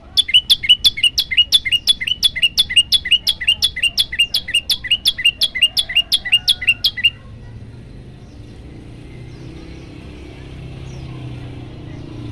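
Prenjak lumut singing a fast, even series of loud, down-slurred chirps, about four a second, which stops abruptly about seven seconds in.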